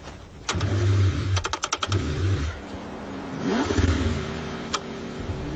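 Cold car engine cranking in repeated bursts, struggling to start in freezing weather, with a quick run of clicks about a second and a half in.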